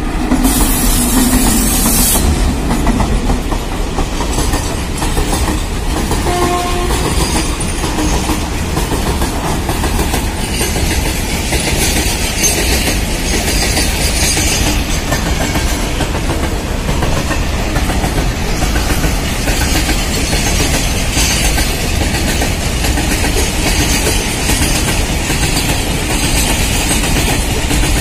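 A freight train passes close by, its electric locomotives first and then a long line of tank wagons. It makes a steady heavy rumble, with wheels clicking over the rail joints.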